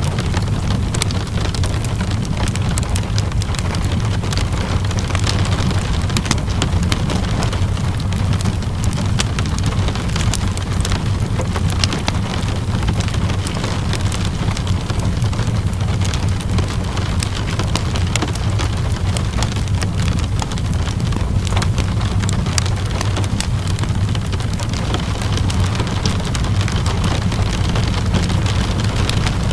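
Steady rainfall mixed with a crackling wood fire: a constant low rumble under a dense scatter of small clicks and pops.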